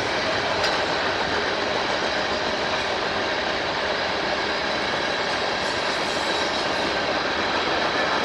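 Train rolling past at steady speed: continuous noise of steel wheels running on the rails.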